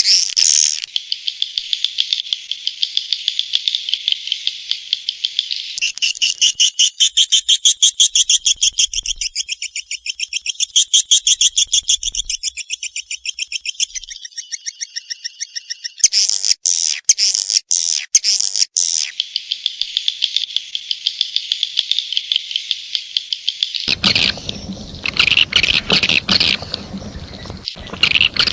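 Swiftlet lure call, the recorded calling sound of edible-nest swiftlets used to attract them to a nesting house: continuous high, rapid twittering chirps and fast pulsed trills. There are a few sharp clicks about two-thirds of the way through, and a fuller, noisier layer joins near the end.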